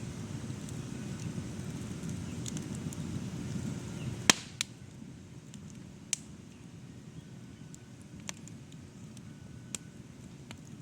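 Cherry-wood campfire crackling, with scattered sharp pops, the loudest about four seconds in. A low rush under the crackle drops away at that moment.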